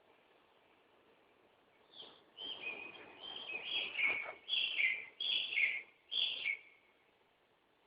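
A songbird singing one phrase of a dozen or so quick whistled notes that slide downward, starting about two seconds in and lasting about four and a half seconds.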